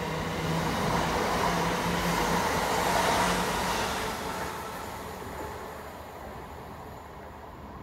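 Heathrow Express Class 332 electric multiple unit passing through a station at speed. Its wheel and running noise swells to its loudest about three seconds in, then fades steadily as the train draws away.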